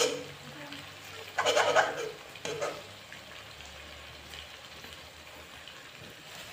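Chicken frying in a wok on a gas burner, sizzling steadily. Two short louder bursts of noise come in the first three seconds.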